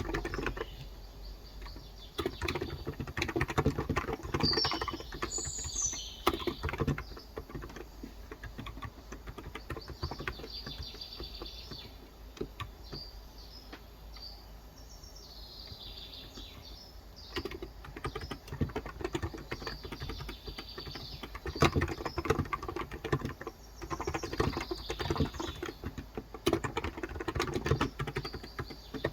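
Typing on a Cox Endeavor tenkeyless electro-capacitive (Topre-style) keyboard with light 35 g switches: quick runs of soft key clicks, pausing for several seconds midway. Birds chirp in the background.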